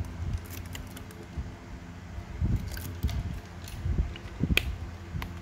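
Scattered light metallic clicks and knocks of a Zippo lighter being handled, over a low steady hum.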